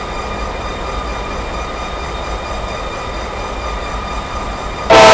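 CPKC freight train running with a steady rumble. Near the end a locomotive air horn suddenly starts blowing, very loud, a chord of several steady tones.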